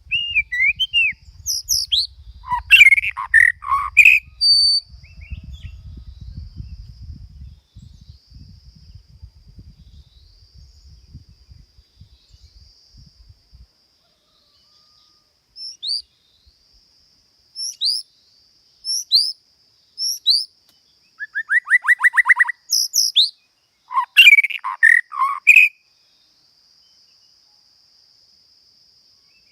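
Songbird singing in two spells of quick, sweeping chirps and whistles with a short buzzy trill. A faint steady high insect drone sounds behind it.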